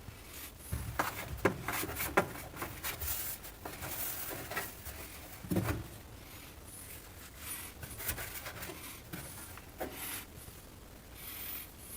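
Irregular clicks, light knocks and rustling of objects being handled, with one louder knock about halfway through.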